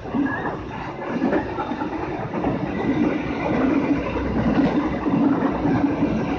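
Passenger train coaches rolling along the track: a steady rumble of wheels on the rails, heard from the rear of the last car.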